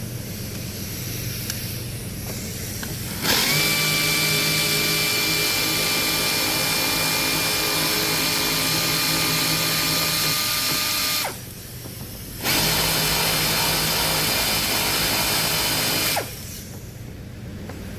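A power tool runs in two long steady spells, about eight seconds and then about four, each starting suddenly at a steady whine and cutting off.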